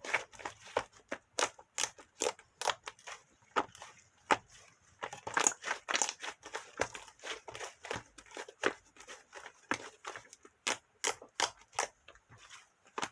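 Irregular crunching and crinkling clicks, a few a second, with no steady tone.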